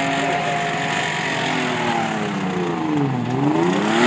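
A burnout car's engine held at high revs, then easing off about two seconds in so its pitch falls, before revving back up near the end.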